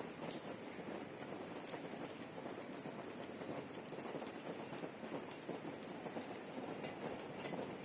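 Steady rain falling, a dense patter of drops with a few sharper drips now and then.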